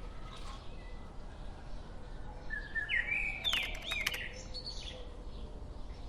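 Birds chirping: a quick run of short, high calls about three seconds in, with a few scattered chirps elsewhere over a steady low background hum.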